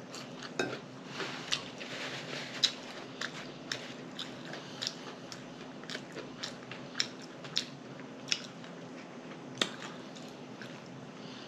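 Close-miked mouth sounds of a person chewing a bun-less cheeseburger: irregular wet lip smacks and clicks, about one or two a second, over a faint steady hum.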